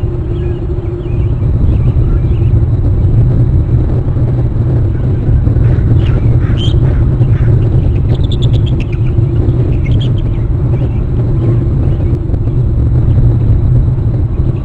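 Bald eagle calling: a series of short, high chittering notes, a quick pulsed run among them, heard about six to ten seconds in over a steady low rumble on the outdoor microphone.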